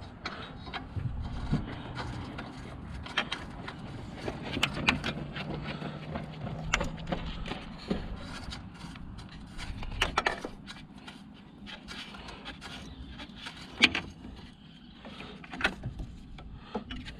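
Irregular clicks, taps and scraping of hand tools and metal parts being handled, with one sharp click about fourteen seconds in.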